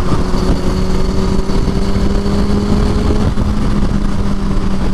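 Motorcycle engine running at a steady highway cruise, a constant drone over heavy low wind rumble on the rider's microphone.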